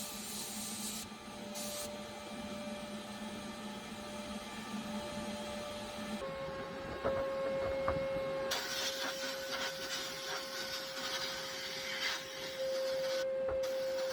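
Small electric motor of a power tool running steadily with a whine and a rubbing, grinding noise. Its pitch steps down slightly about six seconds in, and the sound changes abruptly several times.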